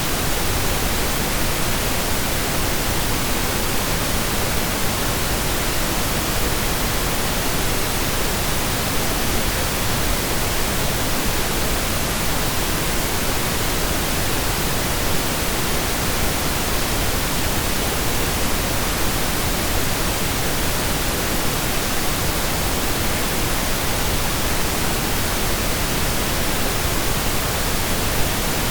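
Steady synthesized pink noise, an even hiss-like rush spread across the whole range with equal energy per octave, unchanging throughout.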